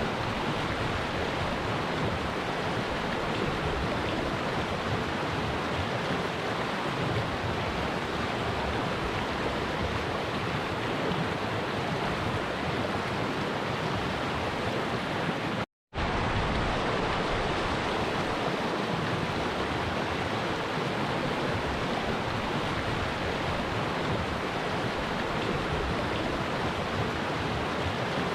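Stream water flowing and rushing in a steady, even wash of sound. It breaks off for a split second of silence about sixteen seconds in, then carries on unchanged.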